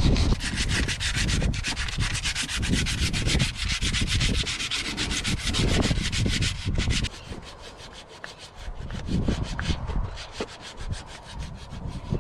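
Hand sanding rust off the Mitsubishi L300 van's steel body: quick back-and-forth scraping strokes, about five a second. The strokes are loud for about seven seconds, then lighter and softer.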